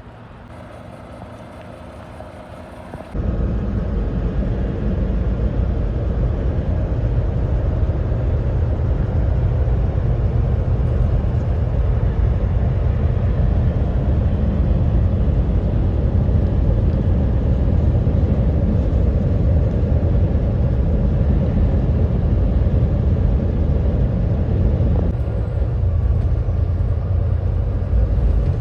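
Semi-truck on the move: a steady low rumble of engine and road noise that starts abruptly about three seconds in, after a quieter opening.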